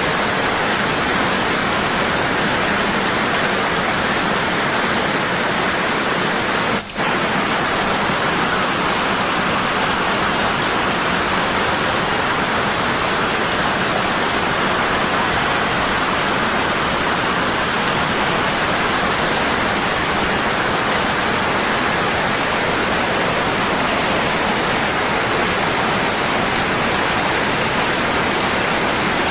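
Waterfall, the water falling heavily and constantly in a steady rushing noise. The sound dips for an instant about seven seconds in.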